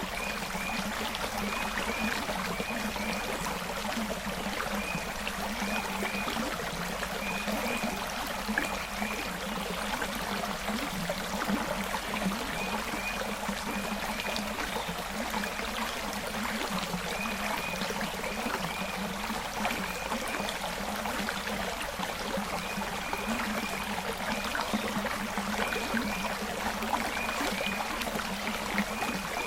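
Forest creek flowing: a steady rush and trickle of water, with a faint high chirp repeating in short groups of two or three every couple of seconds.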